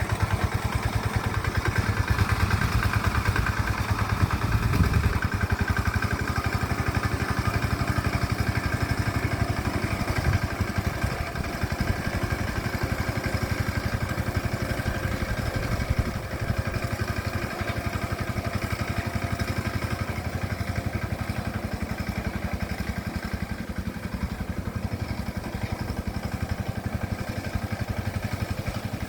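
Engine of a rice-paddy plowing machine running steadily under load, with a rapid, even firing beat.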